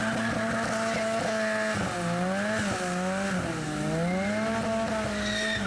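Classic Ford car engine held at high revs for about two seconds, then revved up and down several times.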